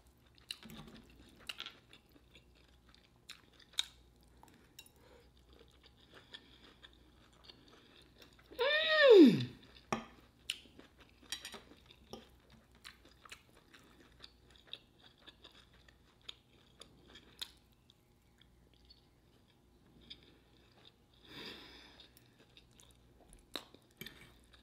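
Close-miked chewing with small wet mouth clicks of a person eating a meal. About nine seconds in comes one short, loud vocal sound that rises briefly and then slides sharply down in pitch.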